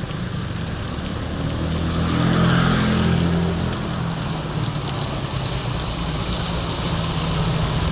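A motor vehicle's engine running, louder for a moment about two to three seconds in, over the steady hiss of heavy rain.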